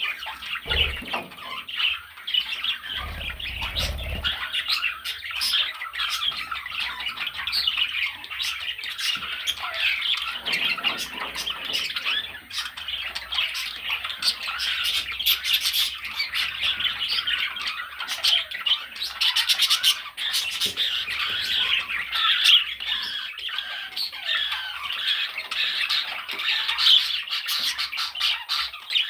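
Budgerigar chattering and squawking without a break, a dense run of quick chirps and clicks. A brief low rumble comes about three seconds in.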